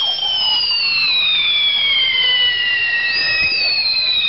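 Whistling fireworks on a spinning fireworks set-piece. Several shrill whistles sound at once, each sliding slowly down in pitch, and a new, higher whistle starts about three seconds in, over a faint hiss of burning.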